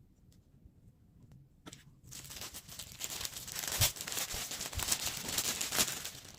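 Plastic packaging crinkling and rustling as it is handled, starting about two seconds in and growing louder.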